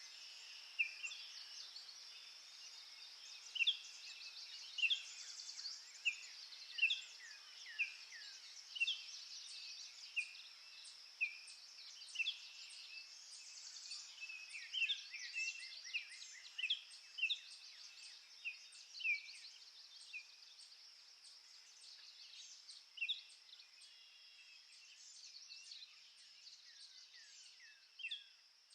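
Birds singing: short, sharp, high chirps, many of them falling in pitch, repeated about once or twice a second. Under them runs a steady high insect drone.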